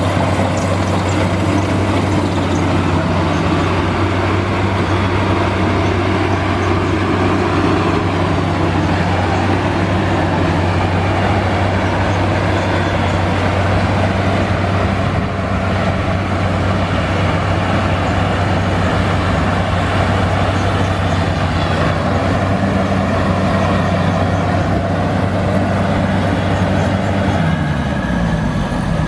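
Crown Sumo combine harvester running with a loud, steady engine drone; near the end the pitch falls as the engine slows.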